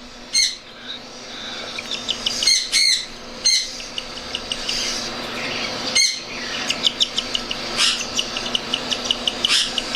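Baby cockatiel chicks food-begging: several harsh screeching calls and long runs of short, high chirps, several a second.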